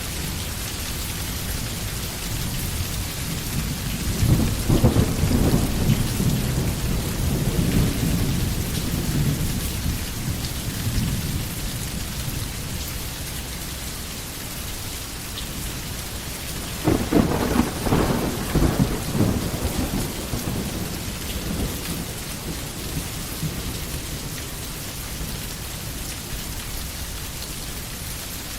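Steady heavy rain falling, with two low rolls of thunder: a long rumble starting about four seconds in, and a shorter one a little past the middle.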